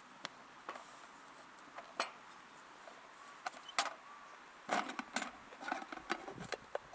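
Scattered light clicks, taps and clatters of small hard objects, a few at first and then a busier cluster from about five to six and a half seconds in.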